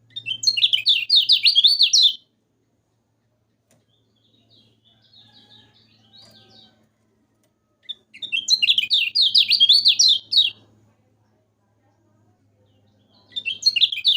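Kecial kuning (a white-eye) singing in loud bursts of about two seconds each, rapid high chattering notes repeated three times, with a quieter chatter between the first two bursts. A faint low hum runs underneath.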